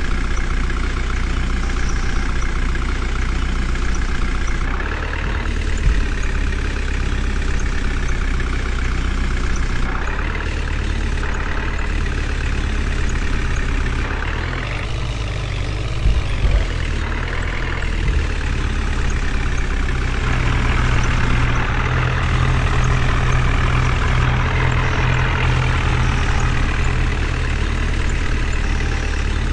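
Heavy diesel engine running steadily, working harder for a few seconds about two-thirds of the way through, with a couple of brief knocks.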